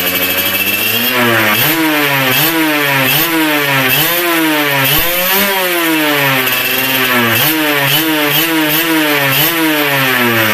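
Suzuki Satria single-cylinder two-stroke engine with daily-riding porting and a standard crankshaft. It idles for about a second, then is blipped over and over, the revs climbing and dropping quickly about a dozen times.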